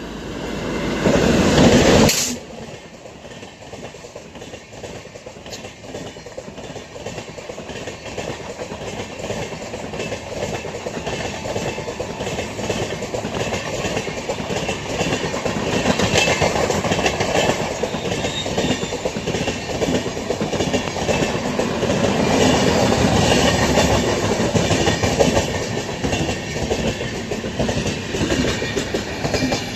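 Express train passing on the main line, its coaches rolling by with a rhythmic clickety-clack of wheels over the rail joints, swelling and easing as it goes. A very loud rush in the first two seconds stops abruptly.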